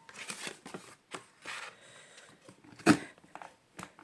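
Card and paper being handled on a craft table: soft rustling and small clicks, with one sharp knock about three seconds in.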